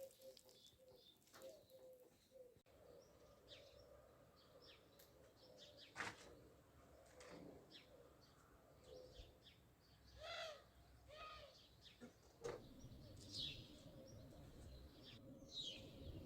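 Faint birdsong: scattered short chirps and calls, including a few quick falling notes near the end.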